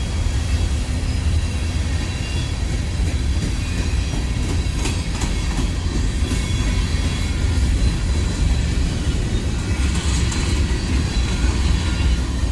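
Norfolk Southern freight train rolling past, a steady heavy rumble.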